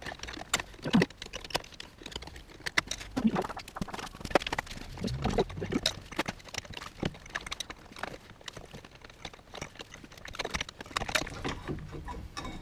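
Irregular metallic clicks, knocks and scrapes as the front brake caliper is levered off the disc and the worn pads are worked loose, with a few duller thuds about halfway through.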